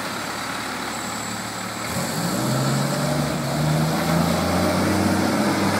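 An engine running steadily, its pitch rising gradually from about two seconds in.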